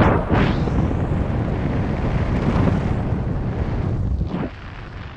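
Wind buffeting the microphone in flight on a paraglider: a loud, rough rush heaviest in the low end, with a strong gust at the start, dropping off sharply about four and a half seconds in.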